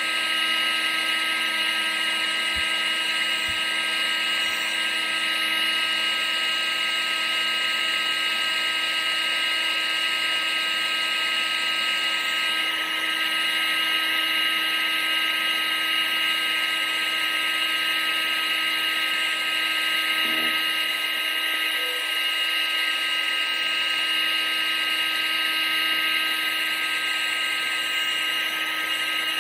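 A household appliance's electric motor and fan running continuously, a steady high whine over rushing air, used as white noise.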